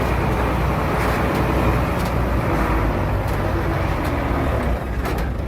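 Heavy diesel engine of earthmoving machinery running steadily, easing off slightly near the end.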